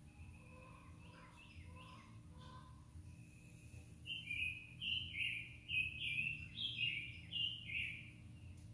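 A bird calling: a few faint notes in the first seconds, then from about four seconds in a louder run of short chirps, roughly two a second, alternating between a higher and a lower note, over a faint low hum.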